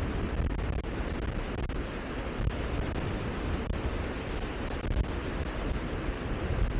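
Wind rushing and buffeting the microphone: a steady hiss over an uneven low rumble.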